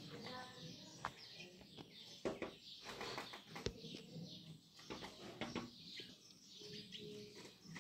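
A bird tapping with its beak on window glass: a few sharp, irregularly spaced taps, with brief faint chirps or wing flutters.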